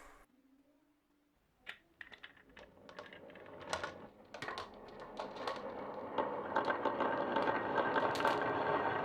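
Glass marbles on a wooden HABA marble run: a single click after a moment of near silence, then scattered clicks that thicken about four seconds in into a dense, steady clatter of many marbles rolling and knocking along the wooden track.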